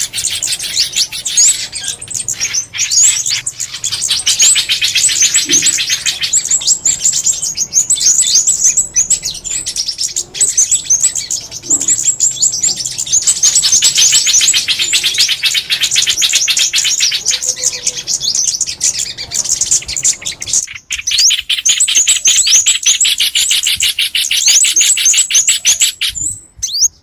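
Recorded calls of small songbirds, played as a lure: a dense stream of rapid, high, downward-sweeping chirps, several birds at once. A brief break near the middle sounds like a splice in the recording.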